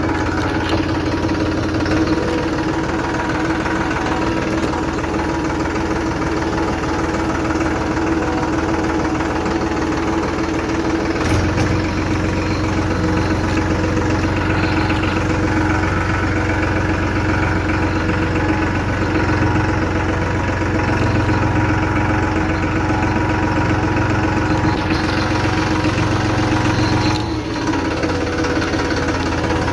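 Tractor engine running steadily. Its low note grows stronger about a third of the way in, and it dips briefly near the end.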